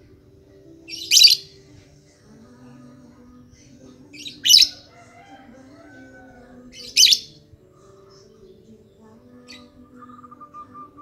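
Lovebird giving loud, shrill, short chirps, three of them about three seconds apart and a weaker one near the end, over faint steady low tones.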